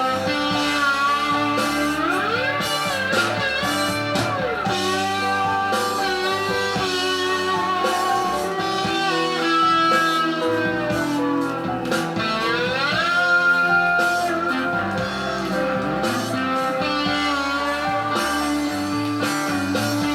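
Live rock band playing the slow instrumental intro of a ballad: an electric slide guitar melody glides between notes over sustained organ chords.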